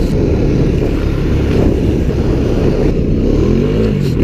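Honda ATV engine running as it rides along, with wind noise on the helmet microphone; the engine pitch dips and climbs again near the end as the throttle changes.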